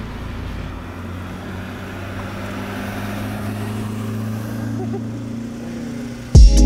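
A car engine idling with a steady low hum. Just before the end, loud electronic music with a heavy bass cuts in abruptly.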